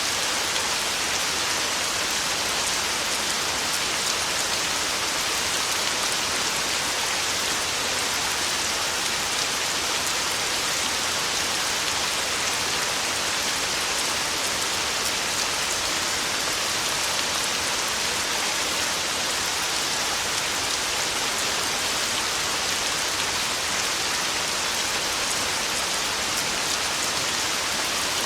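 Heavy rain falling steadily on a tin roof: an even, unbroken hiss with no thunder.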